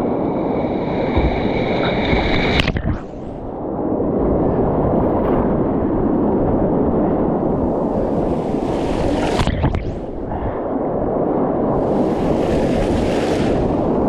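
Whitewater creek rushing against an action camera's microphone, with wind noise on the mic; the sound goes briefly dull twice.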